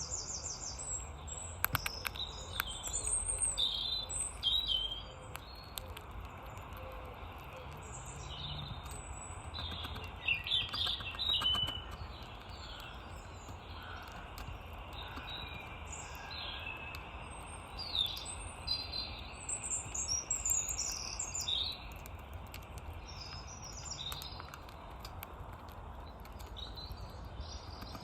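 Small garden birds chirping and twittering in short, scattered calls over a steady low background rumble.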